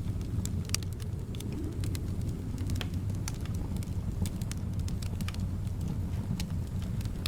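Wood fire in a fireplace crackling, with irregular sharp pops and snaps over a steady low rumble of the flames and soft wind.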